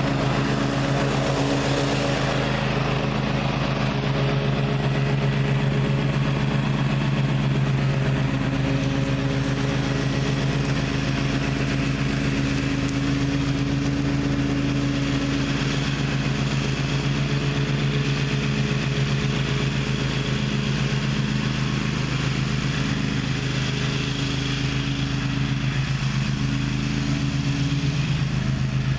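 Gravely ZTX 42 zero-turn mower's engine running steadily at a constant speed.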